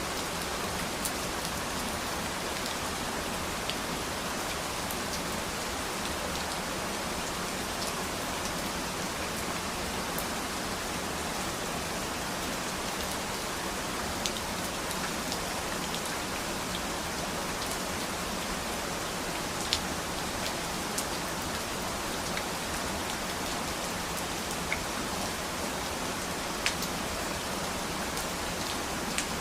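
Steady rain falling: an even hiss with scattered sharper drop ticks, a few louder ones about twenty and twenty-seven seconds in.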